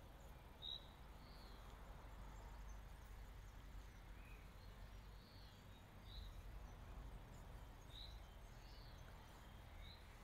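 Near silence outdoors: a faint low background rumble with short, high bird chirps every second or two.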